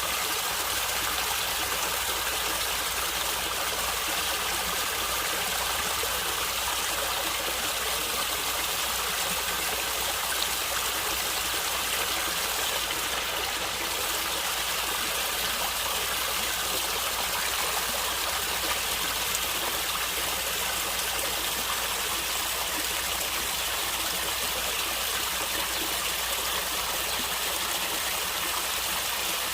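Small natural stream of water flowing and gurgling, a steady, unbroken rush of water.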